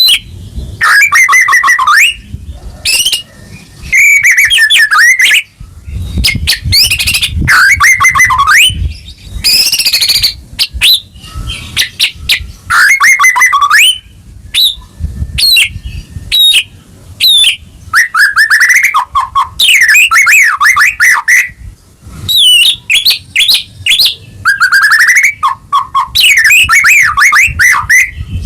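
White-rumped shama (murai batu) singing loudly in full song: a run of rich, varied phrases of fast trills, whistles and sweeping notes. Each phrase lasts a second or two, with short breaks between.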